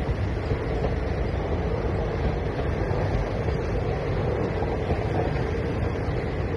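Passenger train coaches rolling past at speed: a steady rumble of wheels on the rails.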